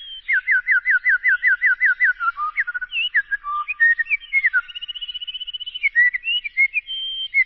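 A boy whistling an imitation of songbird song: a run of about ten quick downward-sliding notes, then varied chirps, short warbling phrases and a held high note.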